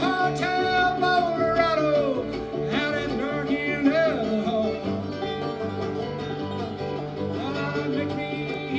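Bluegrass band playing an instrumental break: a lead string instrument sliding and bending between notes over steady acoustic string backing.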